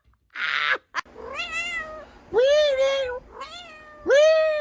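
A cat meowing repeatedly: four long, drawn-out meows, each rising then falling in pitch, starting about a second in.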